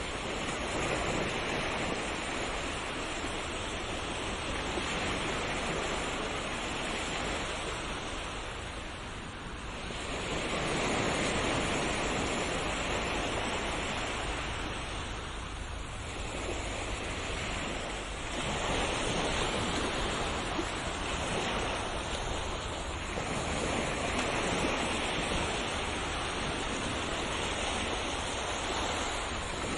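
Ocean waves washing onto a shore: a continuous hiss of surf that swells and eases every few seconds as each wave rolls in and draws back.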